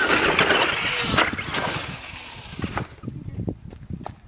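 Electric Traxxas Slash RC truck's motor whining at full throttle with a rush of tyre noise as it takes the jump, a sharp knock about a second in, then dying away, with a few scattered knocks near the end.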